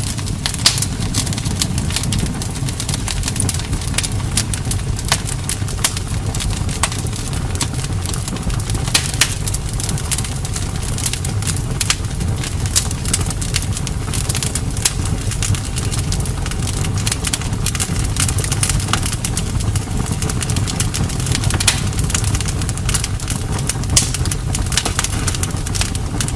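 Campfire burning: a steady low rumble from the flames with frequent sharp crackles and pops of burning wood, several a second.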